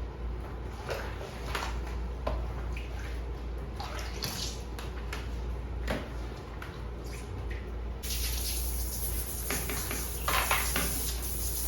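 Water running and splashing from a tap during bathroom cleaning, with scattered knocks and clinks of things being handled. A higher hiss joins about eight seconds in.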